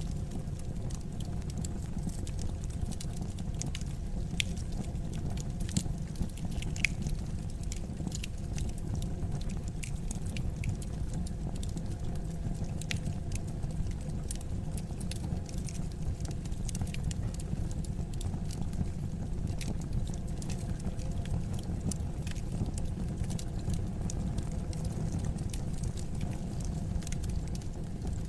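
Wood fire crackling in a fireplace: a steady low rumble of flames with scattered sharp pops and snaps at irregular intervals, a few louder ones now and then.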